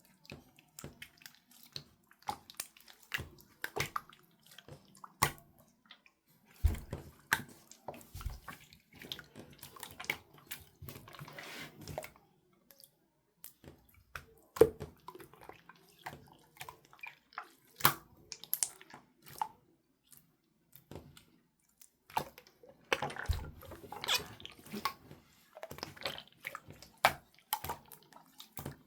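Slime being squished and pressed by hand, giving irregular wet clicks and pops with a few soft thuds.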